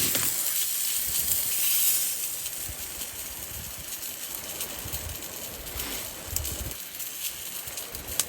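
Food sizzling in a frying pan, a high hiss that fades over the first two seconds and then carries on quietly, with scattered faint crackles and low thumps.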